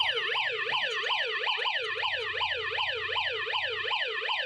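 Battery-powered electronic siren of a 1989 Hess toy fire truck, wailing in a fast up-and-down yelp about three times a second. The owner hears it as the sound of batteries that are dying.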